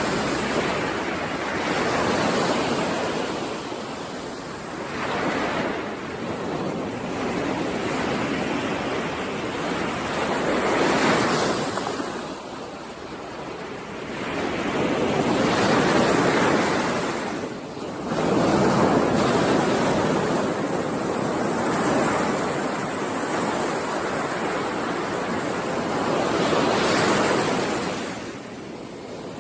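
Ocean waves breaking on a shore, the surf swelling and ebbing every few seconds.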